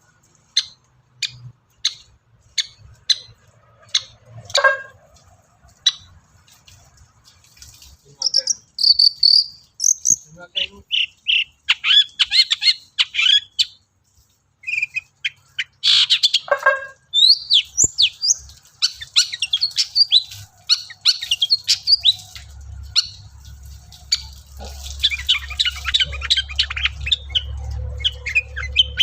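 Long-tailed shrike (cendet) singing. It opens with a run of sharp ticks about twice a second, then breaks into a fast, varied medley of high chirps and trills.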